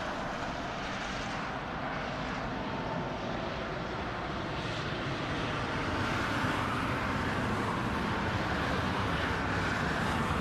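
Airliner engines running with a steady noise and a faint whine, growing slightly louder over the second half.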